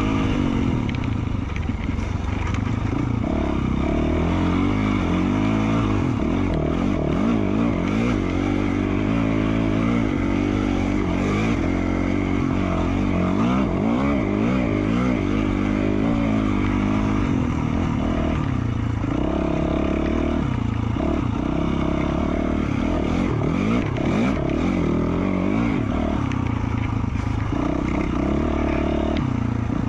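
2020 Yamaha YZ450F's single-cylinder four-stroke engine running through an FMF Q4 slip-on exhaust, its pitch rising and falling continually as the throttle opens and closes while riding. Scattered short knocks and clatter sound over the engine.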